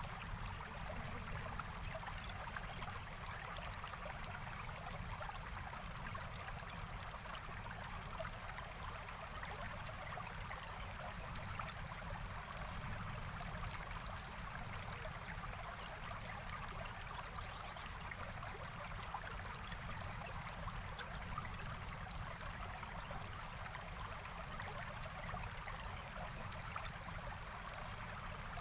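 Forest stream flowing steadily, an even rushing and trickling of water with no change in level.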